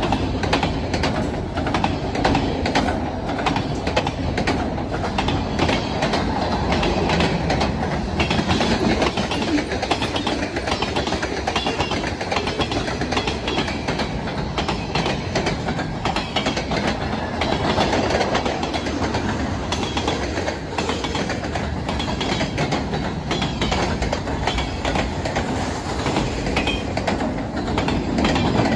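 Freight cars of a CP mixed freight train rolling past at close range: a steady rumble with the wheels clacking over the rails.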